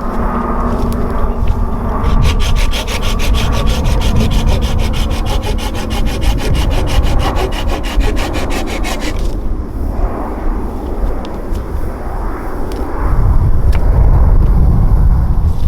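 Wood being sawn: a fast, even rasping from about two seconds in until about nine seconds in, then rougher, uneven rubbing with a heavy low rumble.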